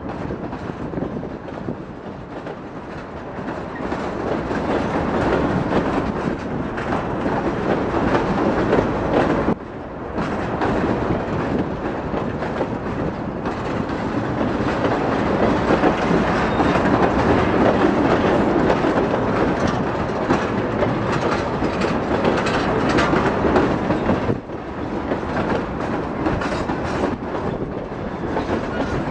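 Freight train's tank cars and covered hoppers rolling past, their wheels rumbling and clacking over the rail joints, with the noise dipping briefly twice.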